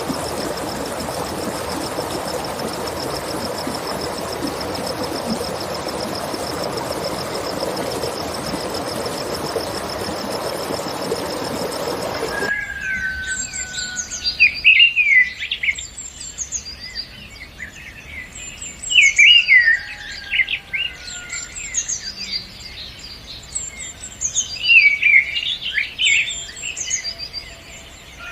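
A steady rushing background with a continuous high, finely pulsing trill, then an abrupt cut about twelve seconds in to wild birdsong: quick chirps and high whistled phrases in bursts, with a lower whistled note now and then.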